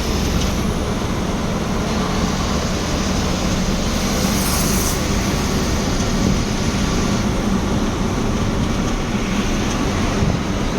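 Truck engine and road noise heard from inside the cab while the lorry drives along the highway: a steady low drone, with a brief hiss about four seconds in.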